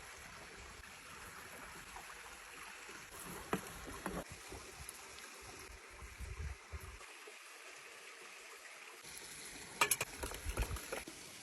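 Campfire crackling under a soft steady hiss, with scattered sharp pops, a cluster of them about ten seconds in, and a few low bumps.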